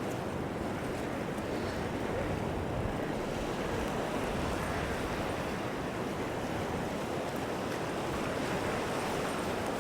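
Surf washing onto a sandy beach with wind, a steady rush of sea noise.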